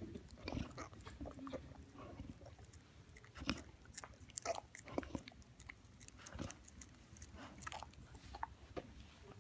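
Faint, irregular crunches and clicks, several sharp ones scattered through, in the manner of chewing.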